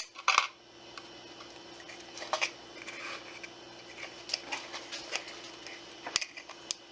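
Plastic support material being cut and snapped off a 3D print: scattered small clicks and cracks, the sharpest just after the start, over a faint steady hum.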